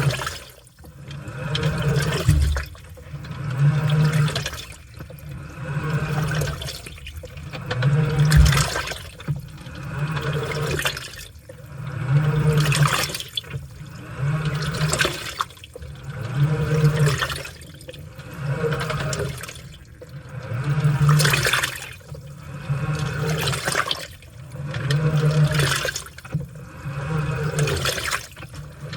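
Washing machine in its wash cycle: the motor hums as it works the load back and forth, one stroke about every two seconds, with water sloshing and splashing on each stroke.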